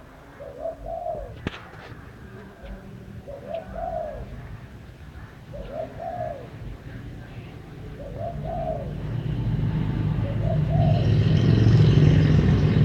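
A dove cooing, one short rising-and-falling coo about every two and a half seconds, five times. In the second half a low rumble with a hiss swells up and becomes louder than the cooing.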